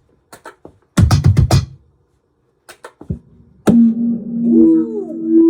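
Laptop cajon played through a Digitech BP355 multi-effects pedal: a quick cluster of hits about a second in, then a single strike that leaves a sustained electronic drone, with a tone bending up and back down partway through.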